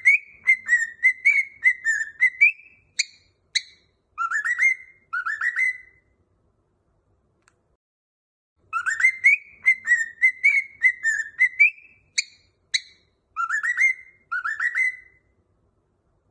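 A whistled tune: a phrase of quick notes sliding up and down, ending with two short high notes and a few rising slides. The phrase plays twice, the same each time, with a pause of about three seconds between.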